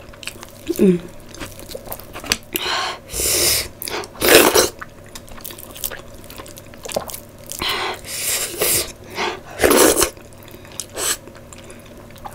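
Close-miked wet chewing and lip smacks of a person eating by hand, with a handful of louder wet smacks spread irregularly through, and a brief hummed 'mm' about a second in.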